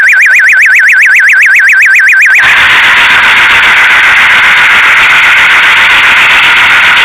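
A loud electronic warbling tone, wavering up and down about seven times a second, cuts abruptly about two and a half seconds in to a harsh, rapidly pulsing buzz.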